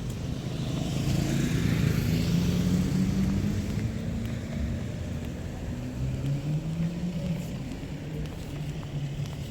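A motor vehicle's engine passing by: a low engine hum that swells to its loudest about two seconds in, then fades to a steadier, softer drone.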